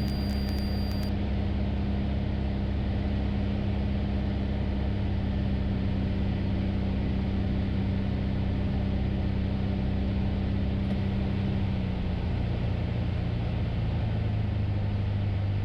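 Light aircraft engine and propeller droning steadily in flight, with the pitch shifting slightly about twelve seconds in.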